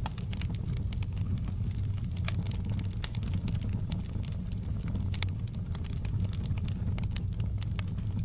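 Wood fire in a fireplace crackling: a steady low rumble of flames with frequent irregular sharp pops and snaps.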